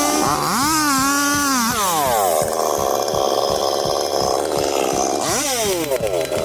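Chainsaw revving up and dropping back twice, then running steadily under load as it cuts for a few seconds, then revving up and down once more near the end.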